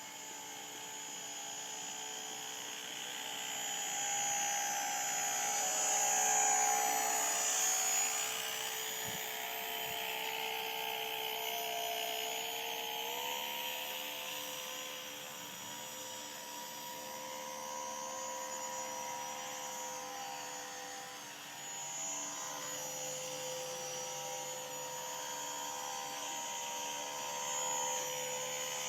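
Motor of a radio-controlled rescue boat running with a steady whine. It grows louder about five to eight seconds in, and its pitch steps up about thirteen seconds in.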